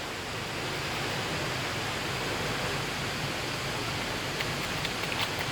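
Steady rushing roar of a nearby waterfall, with a few faint ticks near the end.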